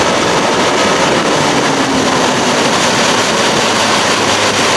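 A 1992 Johnson 60 hp two-stroke outboard running steadily with the boat underway at speed, mixed with loud wind and water noise. The motor is trimmed up, which the owner judges to be too much trim.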